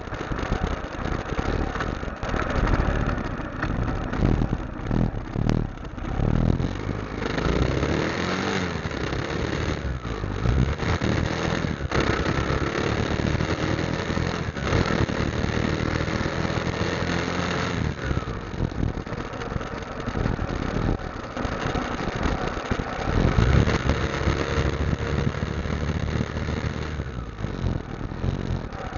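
Motorcycle engine running during a ride, its pitch rising and falling with the throttle, under a steady rush of noise.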